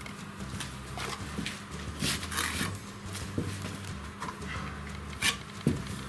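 Irregular knocks and a brief scraping noise about two seconds in, over a steady low hum.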